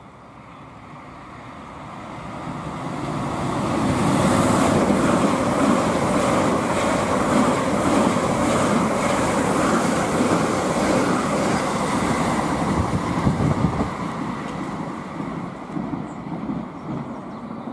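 Electric multiple-unit passenger train running through the station: the rumble of its wheels on the rails swells over the first few seconds, holds loud with a quick run of clicks from the wheels, then fades as the train draws away.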